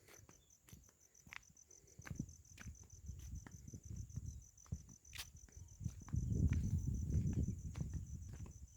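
A cricket chirping in a high, rapid, even pulse throughout, over scattered small clicks; from about six seconds in a louder low rumble comes up beneath it.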